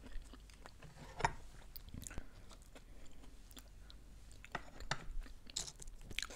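A person chewing quesadilla, with soft wet mouth clicks. There is one sharper click about a second in and a cluster of louder crackles between about four and a half and six seconds.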